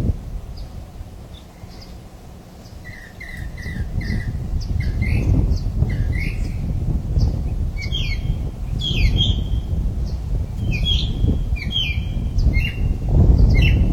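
Wild birds calling with short repeated chirps and squawks, growing busier from about three seconds in, over a steady low rumble.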